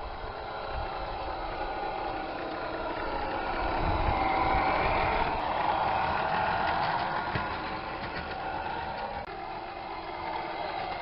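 Engine sound from a 1/14-scale Tamiya Scania Highline RC truck running, swelling in pitch and loudness about four seconds in, then easing back.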